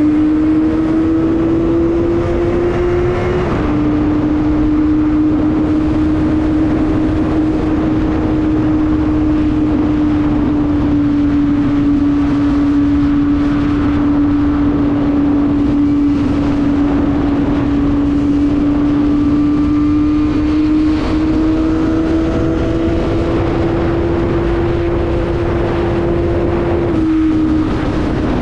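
Kawasaki ZX-25R's 250 cc inline-four engine at high, steady revs while riding, with wind noise over the microphone. The pitch drops suddenly twice, about three and a half seconds in and near the end, each time as it shifts up a gear.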